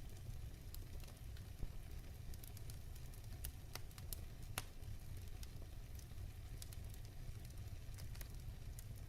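Wood fire burning in a fireplace, crackling with scattered sharp pops over a steady low rumble; one pop about a second and a half in and another near halfway stand out.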